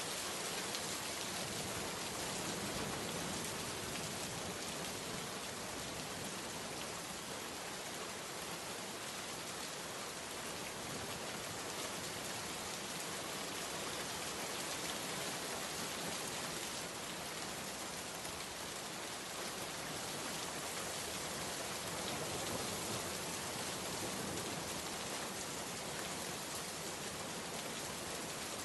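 Steady heavy rain falling, a dense even hiss of many raindrops hitting a surface.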